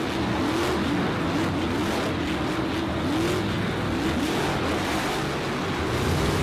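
Car engine revving up and down over and over, with a steady rushing noise beneath: a racing-car sound effect.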